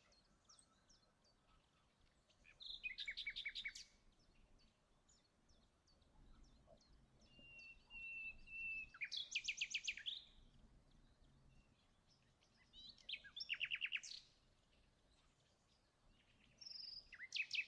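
A small bird singing faintly in short runs of rapid chirps, four times a few seconds apart, with one held whistled note just before the second run.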